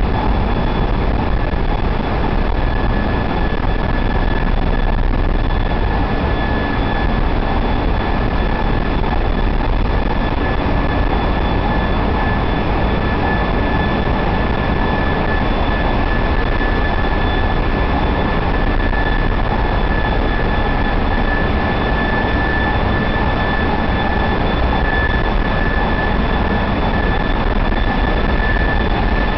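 Ship's engine room machinery running with a loud, steady din, and a constant high whine over it.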